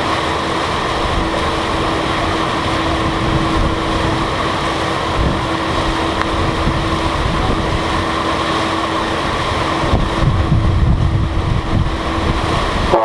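Strong wind buffeting the microphone on the open deck of a ferry underway, with a steady hum beneath it. The wind rumble gets heavier about ten seconds in.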